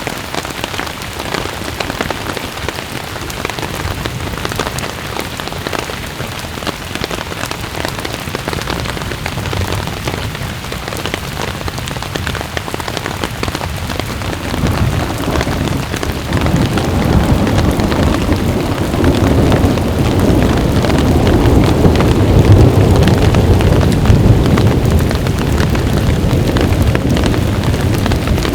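Rain falling steadily in a thunderstorm, with a low rumble of thunder that builds from about halfway through and stays loud to the end.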